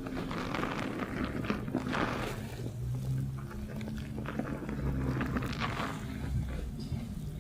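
Fingers scrubbing shampoo lather through hair and scalp, close-miked in binaural: rapid crackling, squelching rubs coming in waves. A low hum runs under it.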